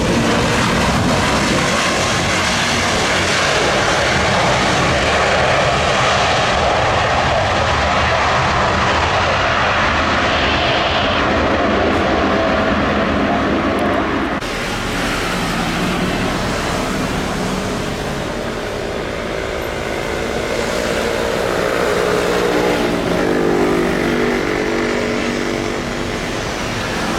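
Jet airliner flying low overhead on landing approach, a loud, steady rush of engine noise. About halfway through the sound drops abruptly to a somewhat quieter level, and near the end a low pitched drone rises.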